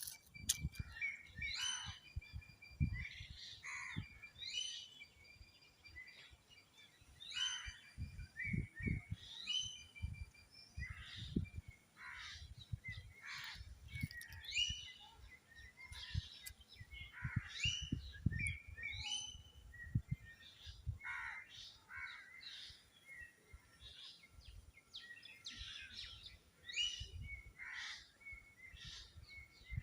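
Birds chirping and calling over and over, many short quick notes overlapping. Irregular low muffled thumps come in under them.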